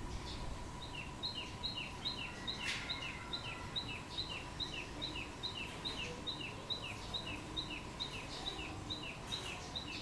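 A small bird calling a rapid, even string of high chirps that alternate between two pitches, about three a second, starting about a second in, over a faint steady hum.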